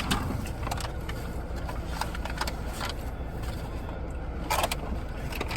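Steady low rumble of a car, heard from inside the cabin, with a few short clicks and rustles.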